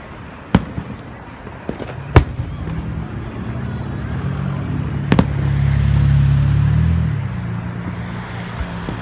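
Fireworks shells bursting: a handful of sharp bangs spread out, the loudest about two seconds in. Under them a low droning rumble swells in the middle and then fades.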